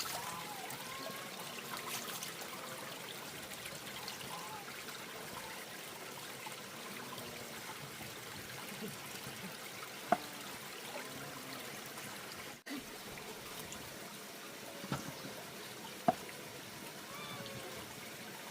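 Steady trickle of running water, with a few sharp clicks or knocks, the clearest about ten seconds in and again near sixteen seconds.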